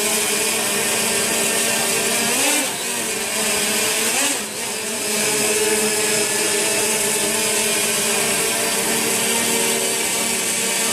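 Steady machine buzz with several held tones over a loud hiss, like motors running at a constant speed; it dips briefly twice, about two and a half and four and a half seconds in.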